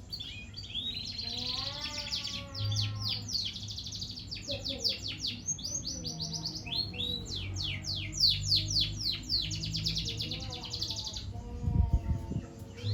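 Young canary practising its song: runs of rapid trills and fast repeated notes, broken by short pauses, the unfinished song of a bird still learning. A low knock comes near the end.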